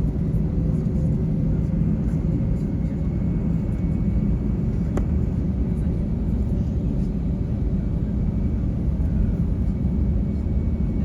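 Airliner cabin noise: a steady low rumble from the jet engines and airframe with a faint steady high whine, broken by a single click about five seconds in.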